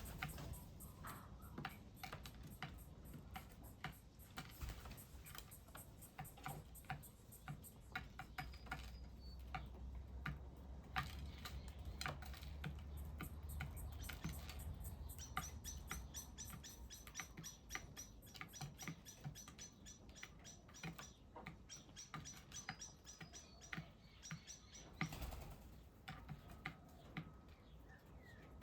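Faint, irregular small clicks and taps of birds pecking at seed, with a thin, high, rapidly repeated bird chirp joining about halfway through.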